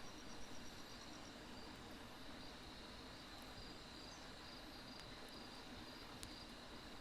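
Crickets and other grass insects chirping steadily, one of them in a rapid pulsed trill that stops about a second in. A couple of sharp crackles from burning firewood come later on.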